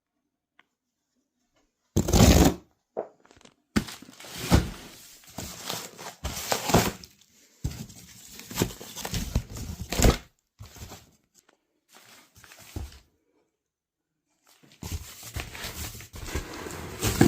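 A cardboard box being torn open by hand: tape and cardboard ripping in irregular bursts, starting about two seconds in, with a pause before more tearing and handling near the end.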